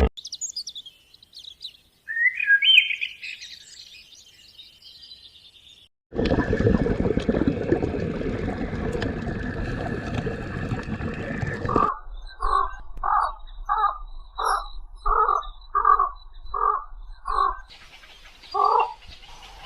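A string of different bird calls: high chirps and rising whistled calls, then a dense noisy stretch, then a run of repeated calls at about two a second.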